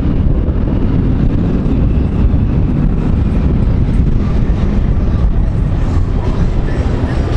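Steady low road rumble of a moving car, tyre and engine noise.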